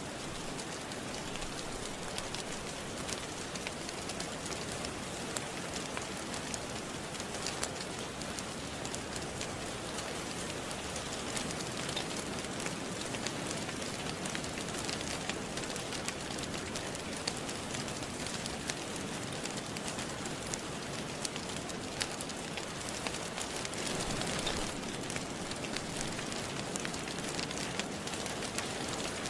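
Steady rainfall with a constant patter of drops, and faint crackling from a wood fire running through it as many small sharp clicks.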